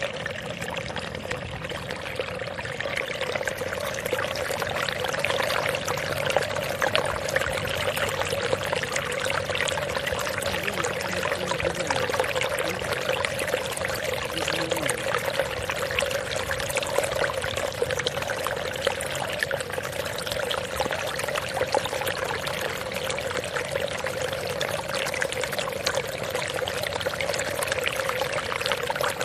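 Steady sound of running, pouring water, unbroken and even in level.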